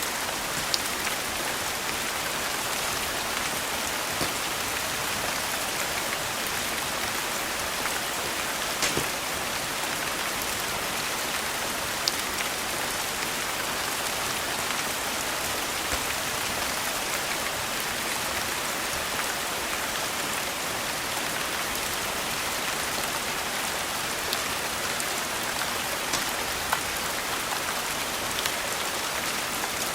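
Steady rain falling, a dense even hiss, with a few scattered sharp clicks over it.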